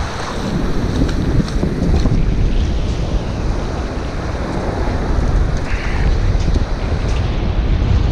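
Heavy wind buffeting the microphone, a loud steady rumble, over small waves washing up a sandy beach.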